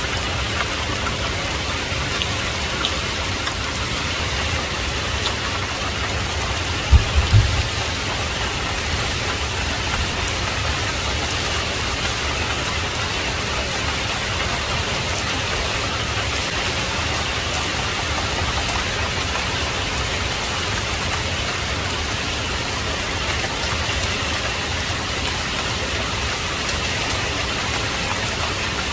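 Heavy rain falling steadily as an even hiss. About seven seconds in there is a brief low thump, the loudest moment.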